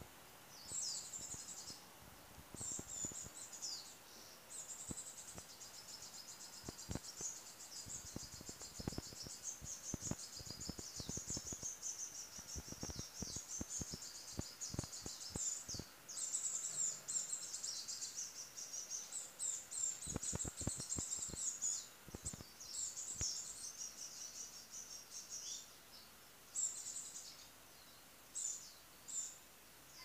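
Small birds twittering in high-pitched chirps and trills, almost without a break through the middle and in short separate phrases near the end, with scattered faint clicks underneath.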